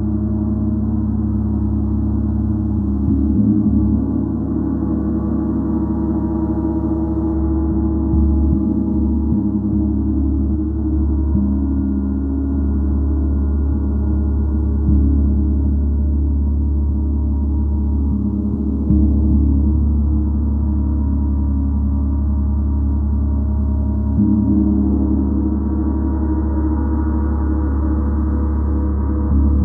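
Gong played continuously for sound healing: a dense, sustained wash of many overlapping ringing tones, renewed by soft strikes every four to five seconds.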